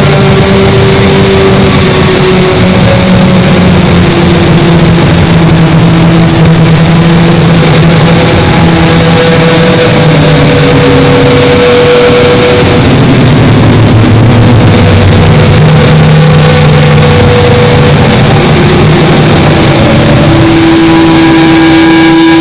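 An engine running steadily under way, very loud, its pitch drifting slowly up and down as its speed changes.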